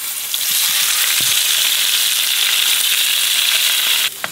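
Blended beans squeezed from a pouch into hot oil in a frying pan, sizzling steadily with a loud hiss, which stops abruptly near the end.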